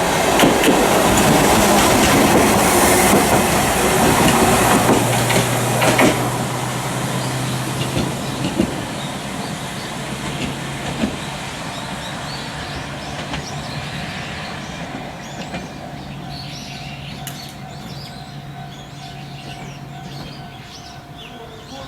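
Hankai Tramway Mo 501-type tram (built 1957) running away from the stop: wheel-on-rail rumble with a few knocks over rail joints and a steady hum, fading steadily as it recedes.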